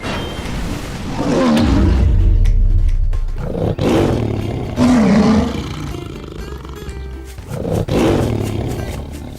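A tiger roaring three times: a long roar in the first few seconds, another in the middle and a shorter one near the end, over background music.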